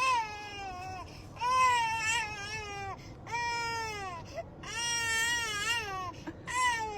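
A dog whining in a string of five long, drawn-out cries, each sliding down in pitch, with short breaks between.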